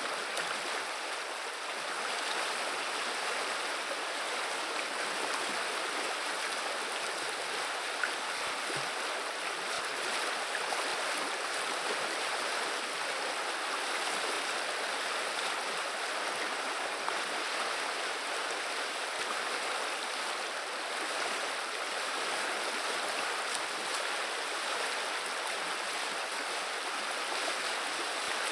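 River water running over the shallows in a steady, unbroken rush and babble.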